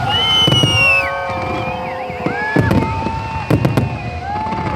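Fireworks going off: a string of sharp bangs and crackles with several long whistles overlapping, one falling in pitch about a second in.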